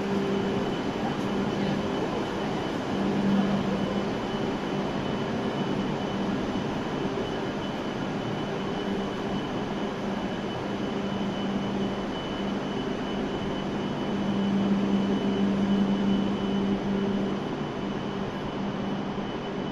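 W7 series shinkansen standing at a station platform, its onboard equipment running with a steady hum and a thin high whine, swelling slightly a couple of times.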